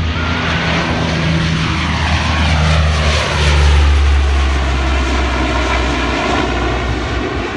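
An aircraft flying past, its engine noise swelling to a peak about halfway through and then easing off.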